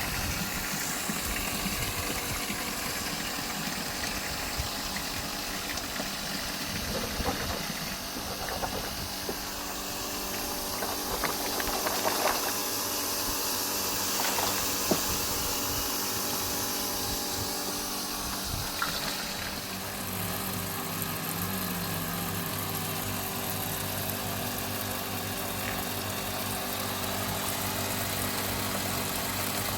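An engine running steadily, with a few clicks partway through; about twenty seconds in its note changes to a steadier, lower hum.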